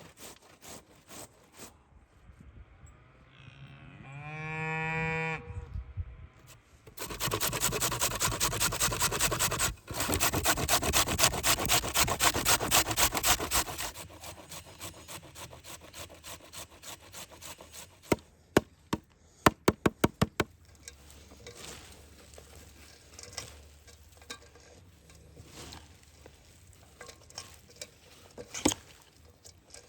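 A cow moos once. A few seconds later comes a long run of fast rhythmic rasping or scraping, the loudest sound here, followed by a quick series of sharp knocks.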